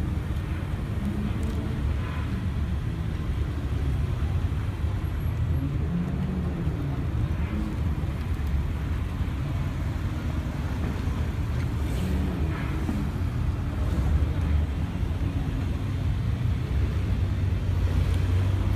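Modified cars driving slowly past one after another, their engines and exhausts giving a steady low rumble.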